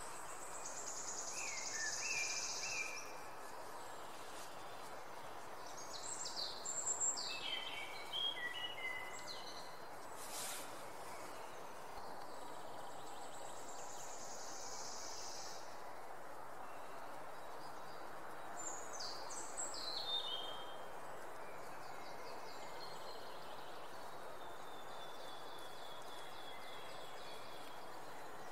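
Songbirds singing in short phrases of high, partly falling and trilled notes every few seconds, over a steady outdoor background hiss.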